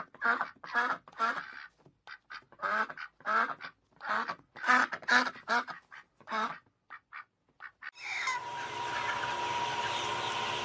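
Duck quacking in a rapid series of short calls, about two or three a second, which grow shorter and fainter before stopping. About three-quarters of the way in they give way to a steady hiss with a thin steady tone.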